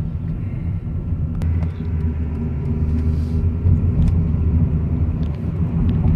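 Car driving along: steady low engine and road rumble.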